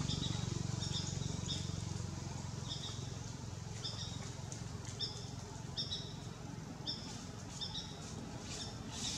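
Small birds chirping: short, high two-note chirps repeated irregularly, about one a second. A low hum underneath fades away over the first few seconds.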